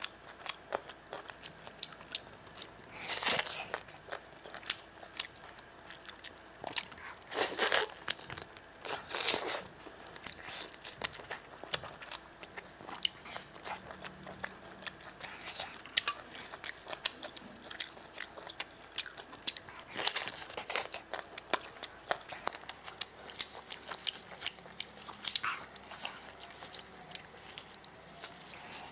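Close-miked biting and chewing of grilled squid, which is crunchy: sharp mouth clicks throughout, and a few longer, louder bites, about 3, 7, 9 and 20 seconds in.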